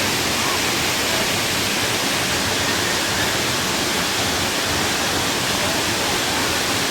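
Waterfall in the Uluguru Mountains, the falling water making a loud, steady, even rush that does not change.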